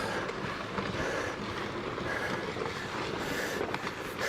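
Rockfall on a volcano slope: loose rocks tumbling down, heard as a steady rushing rumble.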